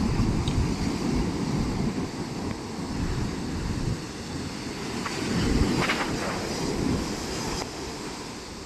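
Sea waves breaking and washing ashore, with a low rumble of wind on the microphone. A wave swells up about five and a half seconds in, then the surf eases off near the end.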